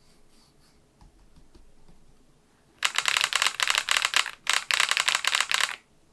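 SMURVE80 mechanical keyboard typed very fast in two runs of rapid, evenly spaced key clicks, split by a brief pause, starting about three seconds in.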